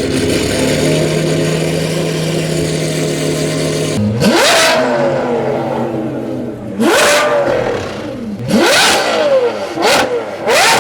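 A high-performance car engine running steadily, then revved hard five times about four seconds in, each rev jumping up sharply in pitch and falling back.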